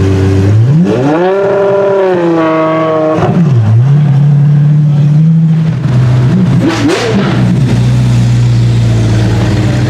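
Apollo Intensa Emozione's 6.3-litre naturally aspirated V12 revving: one long, steep climb to high revs about half a second in, held for about two seconds, then dropping back, with a short blip near seven seconds before settling back to a steady low running note.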